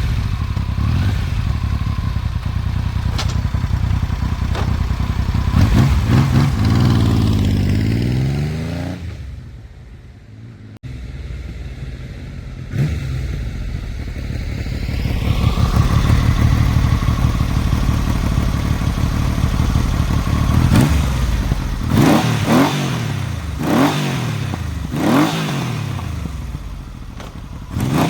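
Yamaha XS750 three-cylinder engine with stock exhaust and K&N pod air filters, freshly started, idling and being revved. The revs rise and fall twice in the first half, the note drops low about a third of the way through before picking up again, and near the end the throttle is blipped in about five quick revs.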